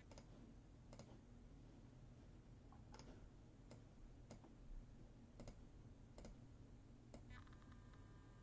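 Near silence broken by faint, sharp clicks, about eight of them at uneven intervals, with faint steady tones coming in near the end.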